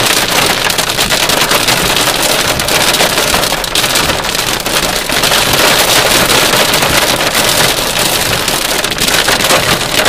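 A heavy rain shower pelting down: a dense, steady hiss of drops with many small ticks of them striking.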